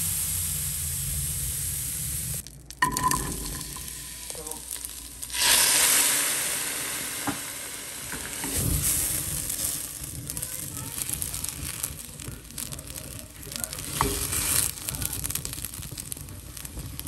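Fat sizzling steadily with scattered small pops. First a tomahawk steak is searing on a grill, then, after a brief break, sliced onions are frying in fat in a pan.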